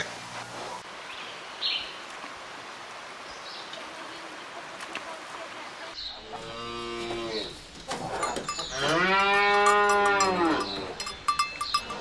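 Cows mooing twice after about six seconds of faint background noise; the second moo is longer and louder than the first.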